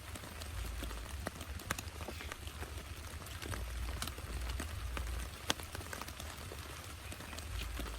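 Heavy rain falling: a steady hiss scattered with sharp, irregular taps of single drops striking a surface.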